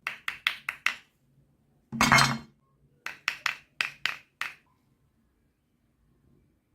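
Hard objects clinking: a run of five quick sharp clinks, a louder rattling clatter about two seconds in, then six more sharp clinks.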